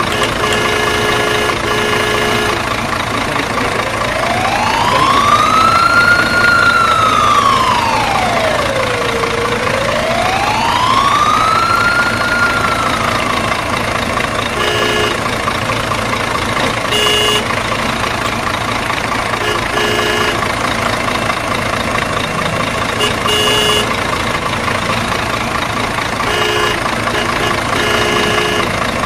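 Toy vehicles' electronic sound effects: a steady engine-like noise, a wailing siren that rises and falls twice, and short beep-like tones that come back every few seconds.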